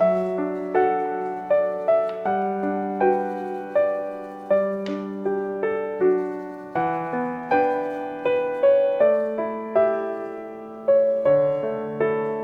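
Gentle solo piano background music, single notes and chords struck and left to ring at an unhurried pace.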